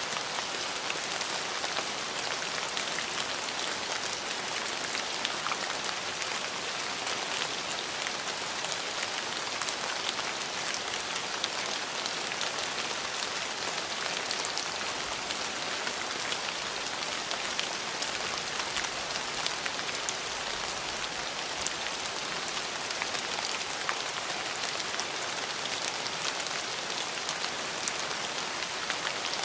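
Steady rain falling, with the patter of many small drops striking a hard surface.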